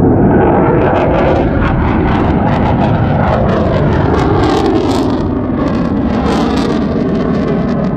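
Loud, steady engine noise of a Blue Angels jet flying past, easing slightly in the second half.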